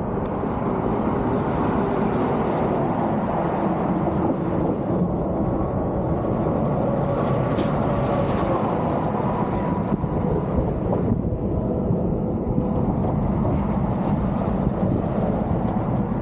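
Steady low rumbling noise, with a faint whine that drifts in pitch through the middle and a single sharp click about halfway through.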